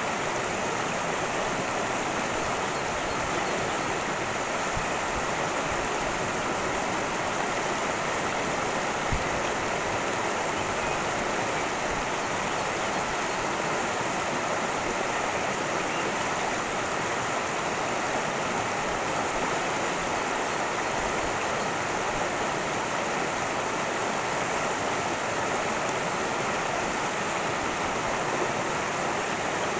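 Creek water rushing and splashing over rocks, a steady unbroken sound.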